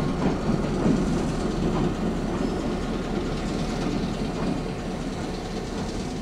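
Passenger train rolling past: its cars and cabooses go by on the rails behind a diesel locomotive that has already pulled away. The rumbling noise slowly fades as the end of the train passes.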